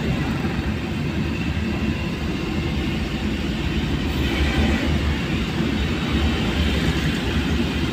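Steady low rumble and road noise of a vehicle driving through heavy rain, with a hiss over it.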